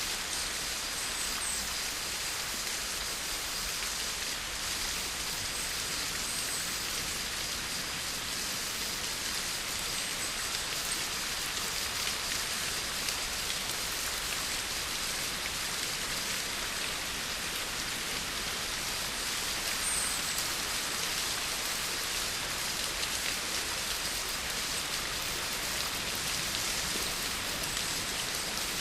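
Steady rain falling, a dense even hiss of drops with fine individual drop ticks.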